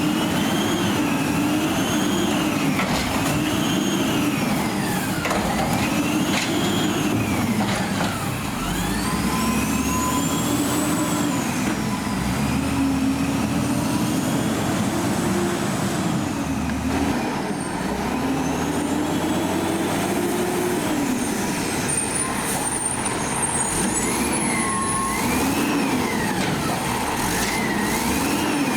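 Diesel engine of a Peterbilt 320 garbage truck revving up and falling back again and again, every two to three seconds, with a faint steady whine at times.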